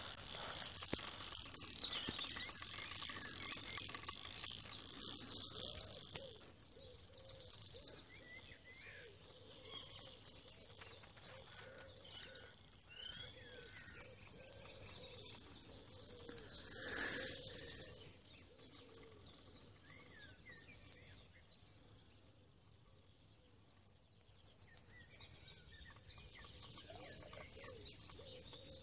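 Wild birds singing and chirping, with a rapid high trill that comes back several times, over a faint outdoor background hiss.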